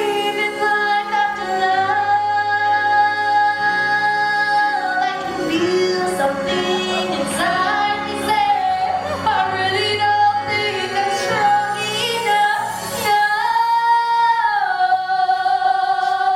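A woman singing a slow song with long held notes over backing music.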